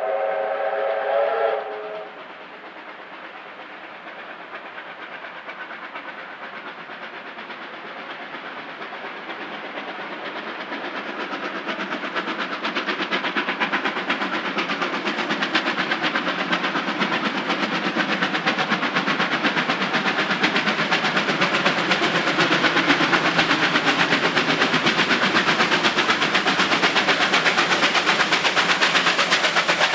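A steam locomotive's whistle sounds a chord of several tones and cuts off about two seconds in. It is followed by the locomotive's rapid, even exhaust beats, growing steadily louder.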